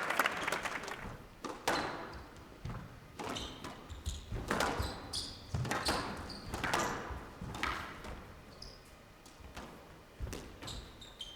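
A squash rally: the ball is struck by rackets and hits the court walls, making sharp knocks roughly a second apart, with short high squeaks from shoes on the court floor between them. Applause fades out at the start.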